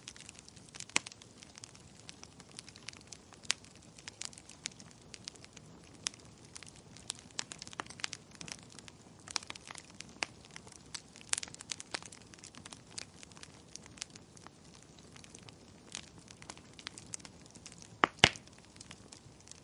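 Wood fire crackling in a fireplace: a low steady hiss with irregular sharp pops, two of the loudest close together near the end.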